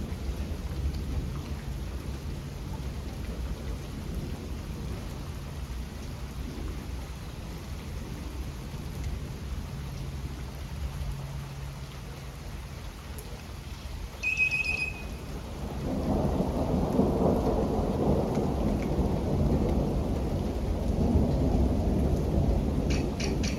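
Steady rain with low rolling thunder, which swells louder about two-thirds of the way through. Just before the swell there is a short high-pitched chirp, and near the end a quick run of faint high ticks.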